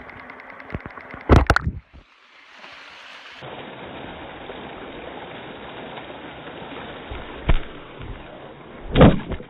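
An iPhone clatters off a log and tumbles into a river below a waterfall: sharp knocks about a second and a half in and a brief dropout, then steady rushing water recorded by the phone lying in the stream, with a couple of dull thumps near the end.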